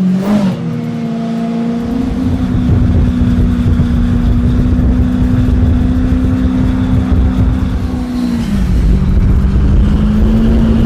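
A motorcycle engine running at high, steady revs, its pitch dropping briefly about eight seconds in and then climbing back up.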